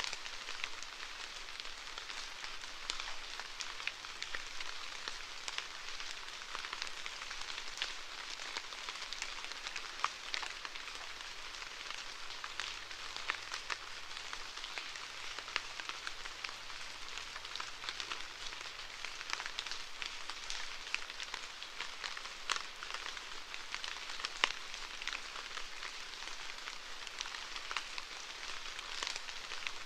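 Steady rainfall: a continuous hiss of rain with many small, irregular drop ticks.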